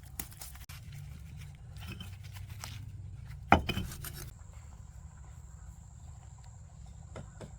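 Scattered light clicks and knocks, with one sharp knock about three and a half seconds in, over a steady low hum; a thin, steady high tone starts a little after four seconds.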